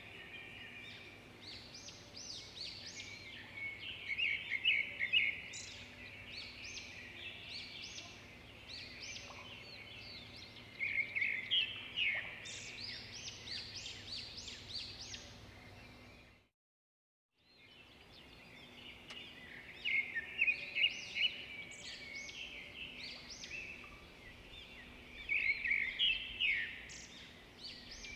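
Small birds chirping and singing in repeated bouts of quick high notes, over a faint steady hum. The sound cuts out completely for about a second midway.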